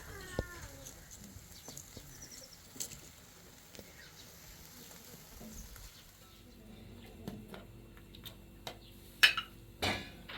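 Dishes clattering: two sharp clinks and knocks near the end, over a faint background of scattered light ticks.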